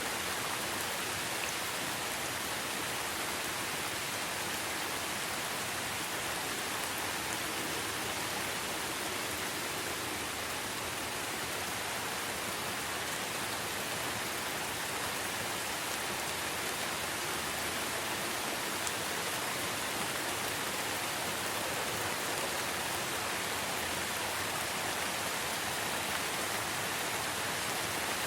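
Steady, even rain falling in a forest, a constant hiss without distinct thunder or other events.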